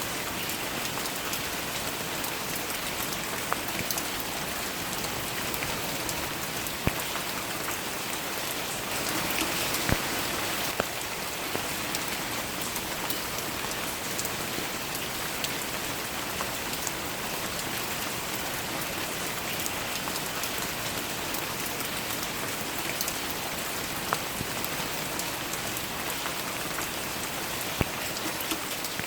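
Steady rain falling, with individual louder drops ticking now and then, swelling slightly about a third of the way in.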